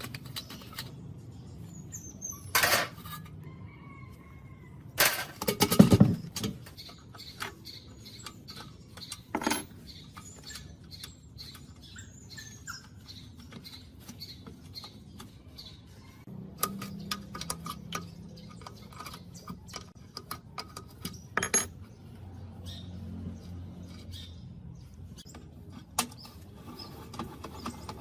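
Metal parts and hand tools being handled: scattered clinks and taps with a few louder knocks, the loudest a cluster about five to six seconds in. Birds chirp in the background.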